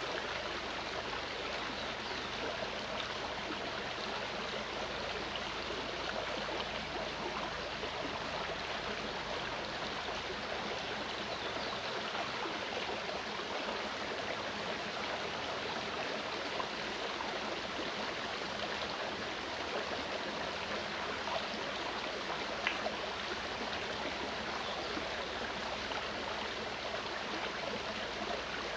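Clear mountain stream running over rocks: a steady rush and burble of flowing water.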